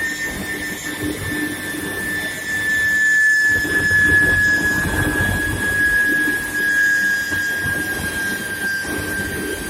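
Induction heat-treatment furnace for square steel bar running, with a steady high whine that slowly falls in pitch over a low rumble of working machinery. The rumble grows louder a few seconds in.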